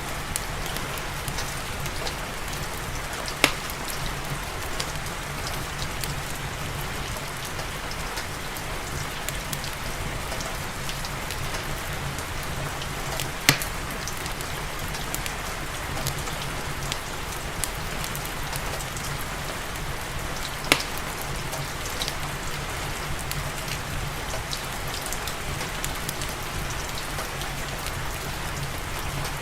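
Steady rain falling, mixed with a fireplace's crackle: many small ticks and three loud, sharp pops spread through.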